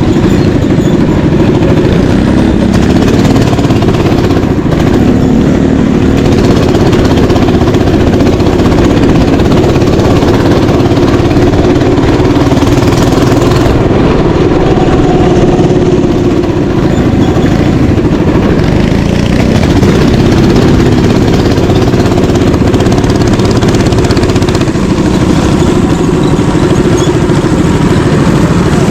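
Mini bike engine running steadily, its pitch shifting a little now and then.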